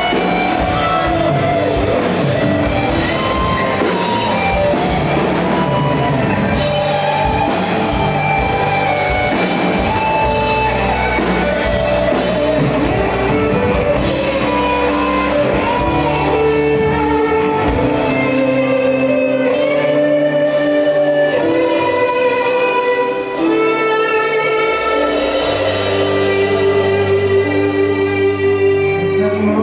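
Live worship band playing without lyrics being sung: electric guitars, keys, bass and drum kit. After about 18 seconds the drums and bass drop away, leaving sustained chords.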